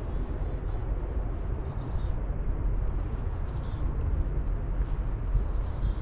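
Small birds chirping in short, high-pitched, falling series a few times, over a steady low rumble.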